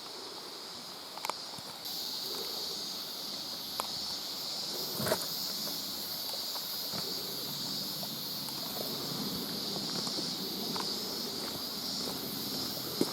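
Steady high-pitched hiss of mountain forest and stream ambience that gets louder about two seconds in, with a few scattered clicks and knocks from footsteps and the handheld camera.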